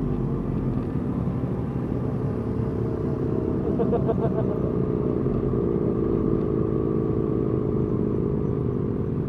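Motorcycle engines running in a slow-moving parade, a steady rumble with some wavering engine notes about four seconds in and again a little later.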